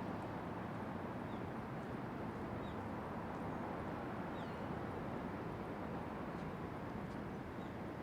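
Steady distant city traffic rumble, with a few faint, short bird chirps scattered over it.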